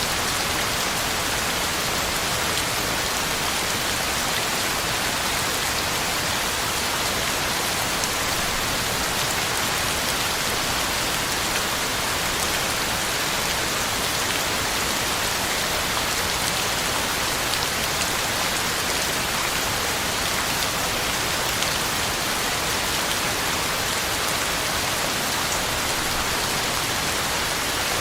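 Heavy rain falling steadily: an even hiss of drops on the ground and leaves, with an occasional sharper drop hit.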